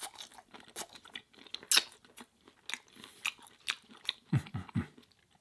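Close-miked chewing of crinkle-cut fries: irregular crisp crunches and wet mouth clicks. A few short low hums from the eater a little over four seconds in.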